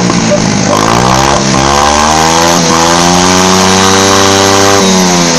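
Motomar Blade 80cc four-stroke engine revving through a free-flow straight-through exhaust, its rear wheel spinning off the ground. The revs sag in the first second, climb steadily for about four seconds, then drop suddenly near the end.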